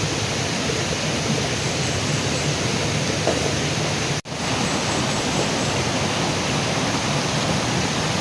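Steady rush of a flowing river, with a brief dropout about four seconds in.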